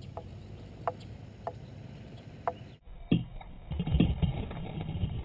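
A few sharp, isolated clicks over a steady low hiss. After an abrupt cut, a plastic fishing kayak gives low, uneven knocking and water movement, loudest about four seconds in.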